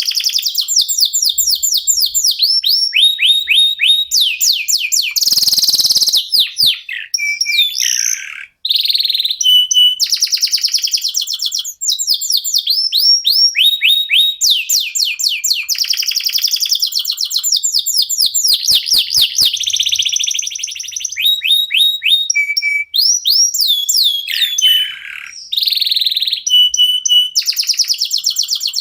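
Local domestic canaries (kenari lokal) singing continuously. The song is fast rolling trills and quick runs of downward-sweeping notes, broken by short steady whistles, with only a brief pause now and then.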